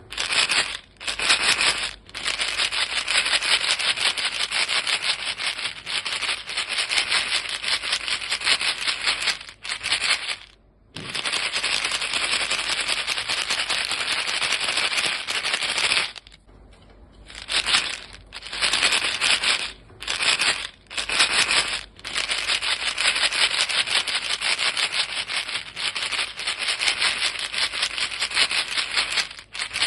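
Chewing gum pellets rattling in a box as it is shaken, making a dense, even patter of many small clicks. The shaking stops briefly several times, once for over a second just past halfway.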